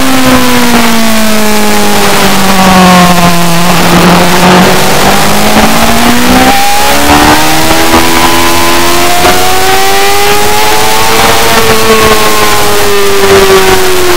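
Racing motorcycle engine running hard and continuously. The revs fall over the first few seconds, then climb, with a short break in the note about six and a half seconds in, like a gear change. They rise slowly again and drop near the end.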